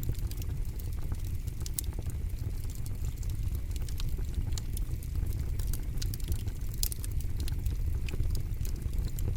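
Campfire burning with a steady low roar of flames and frequent sharp crackles and pops from the burning wood.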